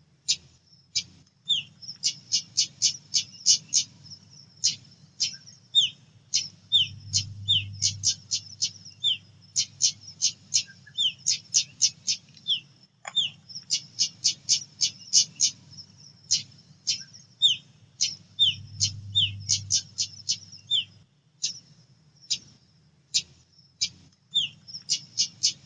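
Female pied bushchat calling: runs of quick, sharp chip notes, several a second, broken by short pauses, with brief falling notes mixed in. A faint low hum lies underneath.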